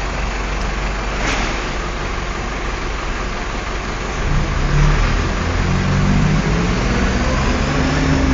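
A motor vehicle's engine running over steady street noise, getting louder and shifting in pitch from about four seconds in.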